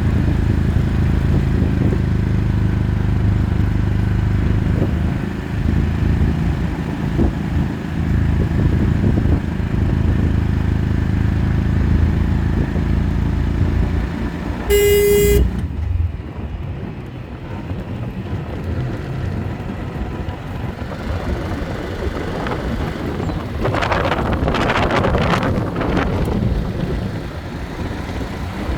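Motor vehicle engine running steadily, with one short horn toot about halfway through, after which the engine sound drops away and a softer rushing sound rises and falls near the end.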